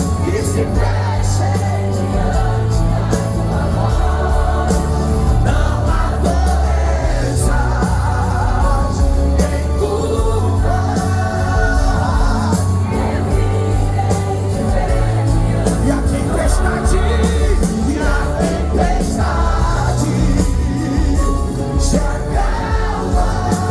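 Live Christian gospel band playing a worship song with singing over it: strong bass, steady drums and cymbals.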